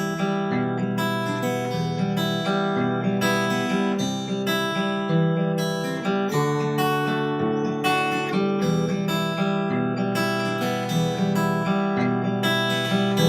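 Cort Earth 200 steel-string acoustic guitar, fingerpicked in a steady arpeggiated pattern through a chord progression, without voice.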